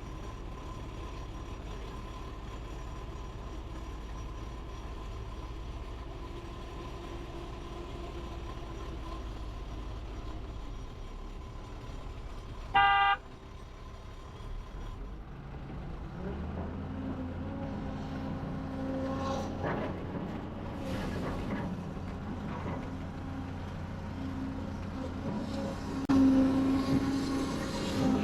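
Diesel engines of heavy construction machinery running, with one short horn blast about halfway through. After that a nearer engine runs louder and rises again near the end.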